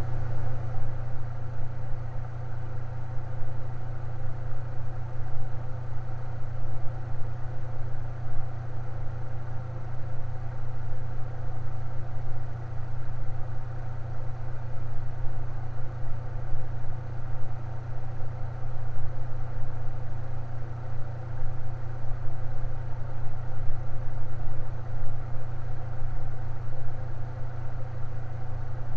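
Electric fan running steadily: a constant low motor hum with a whir of steady higher tones over it.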